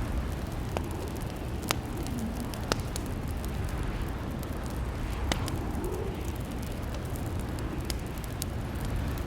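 Wood fire crackling in a fireplace: a steady low rumble of burning with scattered sharp pops.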